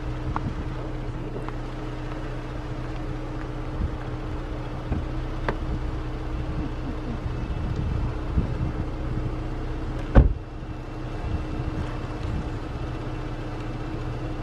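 A vehicle engine idling steadily, with one sharp knock about ten seconds in.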